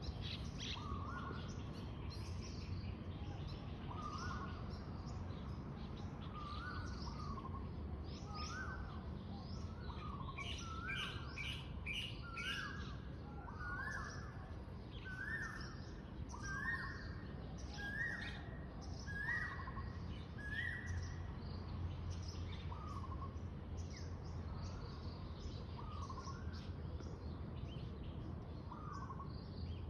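Birds singing: one bird repeats a short rising whistled note about every second and a half, its pitch stepping slightly higher through the middle, while other birds chirp higher up, over a steady low background rumble.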